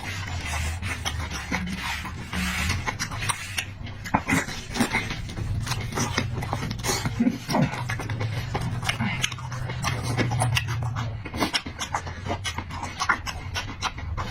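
Close-miked eating: wet chewing and lip-smacking with irregular clicks of the mouth, over a low steady hum.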